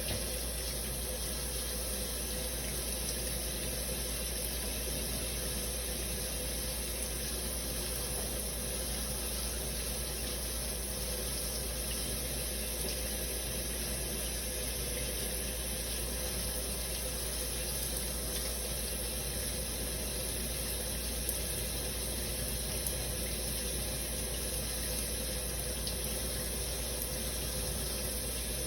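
Shower running steadily, water spraying and splashing in an even, unbroken rush.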